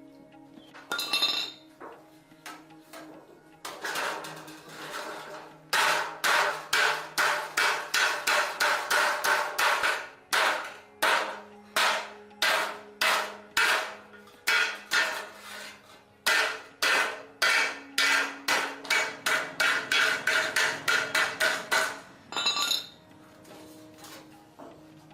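A hammer striking repeatedly and fast, about three to four blows a second, in three runs with short breaks between them.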